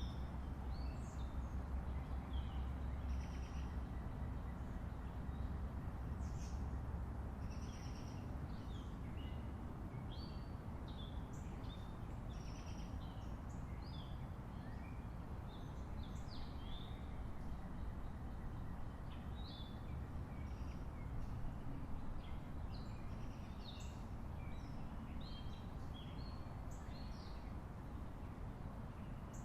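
Birds chirping, with many short, quick calls throughout, over a steady low background rumble that is heavier in the first third.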